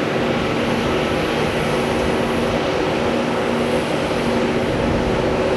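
Jet airliner's engines, a steady, even noise with a few low humming tones held through it.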